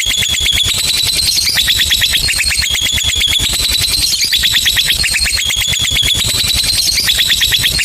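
Lovebird's long chattering trill (ngekek): a rapid stream of shrill repeated notes, many a second, running on in roughly one-second phrases that step slightly up and down in pitch without a break.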